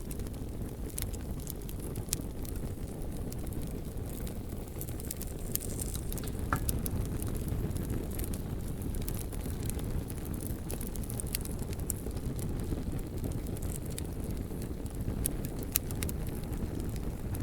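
Campfire crackling, with sharp pops scattered irregularly through it over a steady low rumble.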